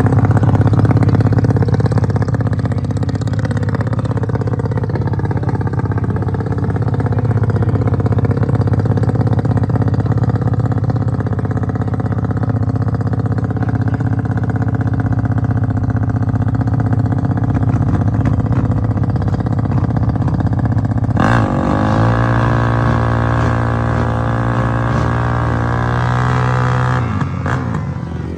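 Drag-racing motorcycle engines running loud. About three quarters of the way in, one engine's pitch climbs steadily for several seconds as it accelerates hard, then falls away near the end.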